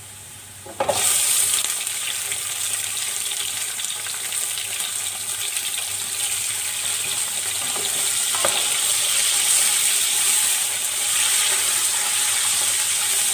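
Raw chicken pieces going into hot oil with fried onions in a pot, setting off a sudden loud sizzle about a second in that carries on steadily. A spatula stirs them, with a few light scrapes.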